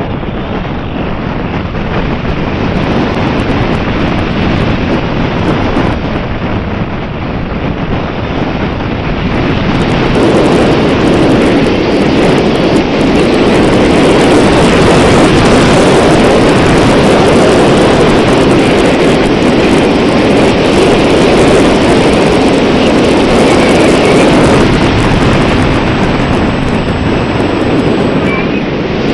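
Wind buffeting the microphone, a loud steady rush that grows louder about ten seconds in.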